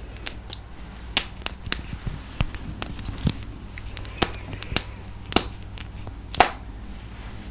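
About a dozen sharp, irregular clicks and smacks as a lip gloss is opened and applied: the tube and wand being handled, and the lips pressing and smacking. The loudest come about a second in and near the end.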